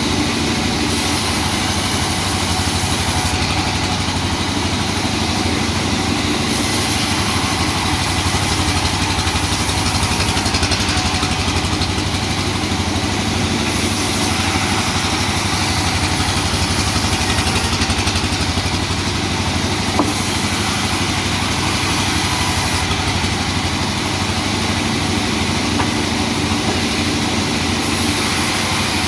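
Sawmill machinery running steadily, a constant loud engine-like drone with no pauses.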